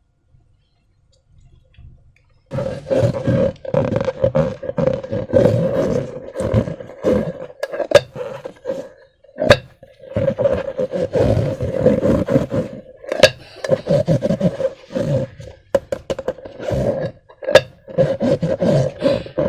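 Slime being squeezed and worked by hand with balloon rubber: loud, uneven squelching with a steady squeak-like tone and sharp clicks, starting after a couple of seconds of quiet.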